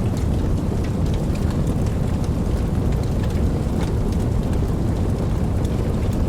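Steady rain: an even hiss with a deep low rumble beneath it and scattered sharp ticks of individual drops.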